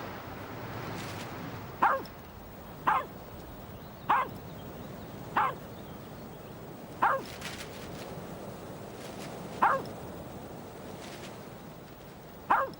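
A dog barking: seven short single barks at uneven intervals, one every one to two and a half seconds, over a steady rushing background.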